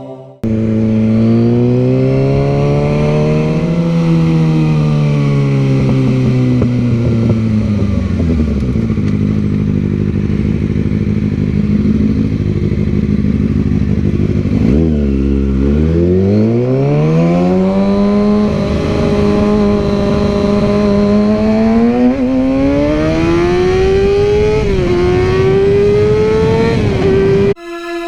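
Sport motorcycle engine revving through the gears while riding. The pitch rises and falls, drops sharply about halfway through, then climbs again, with brief dips at gear changes near the end.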